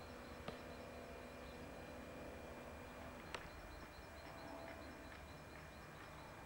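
Faint outdoor ambience on an old Video 8 camcorder soundtrack: steady tape hiss and a low hum, with a small bird chirping repeatedly in the distance. There are two sharp clicks, about half a second in and again just past three seconds.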